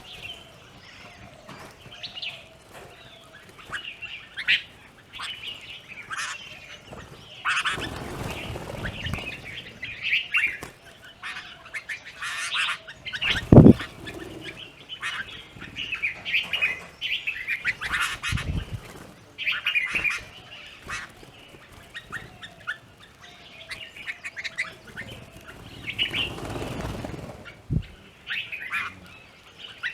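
Plum-headed parakeets and Himalayan bulbuls calling with many short, repeated chirps and squawks. A few noisy rustling bursts break in, and there is one sharp low thump about halfway through.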